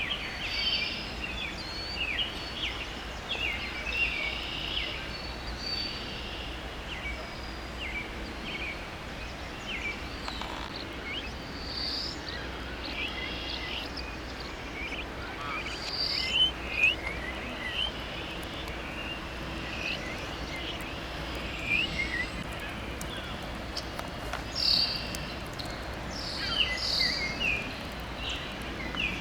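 Birds chirping and calling on and off in short high notes, over a steady low outdoor rumble with a faint hum.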